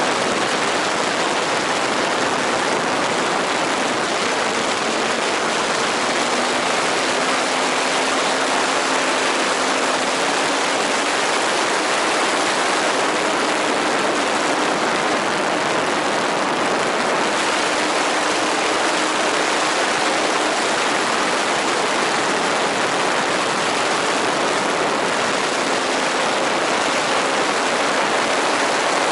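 A steady rushing noise throughout. Under it, a faint drone comes and goes, shifting slightly in pitch: the engine of a radio-controlled model airplane in flight.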